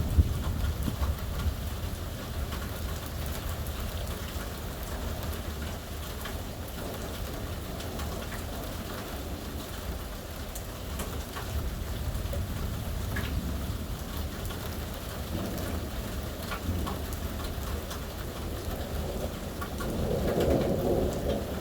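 Steady heavy rain with scattered drops ticking, over a continuous low rumble of thunder. The thunder swells louder near the end.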